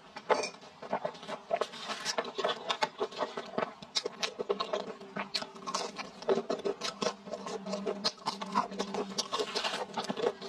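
Close-miked chewing and wet mouth smacking of chili-coated fried skewer food, a dense, irregular run of small clicks and squelches.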